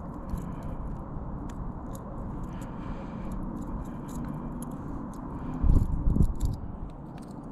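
Light clicks and scrapes as a small largemouth bass on a treble-hooked crankbait is handled, over a low steady rumble, with a brief heavier thumping about six seconds in.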